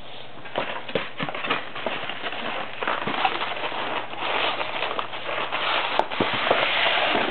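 Handling noise: steady rustling with many irregular clicks and knocks, as papers and a package are moved about and searched through.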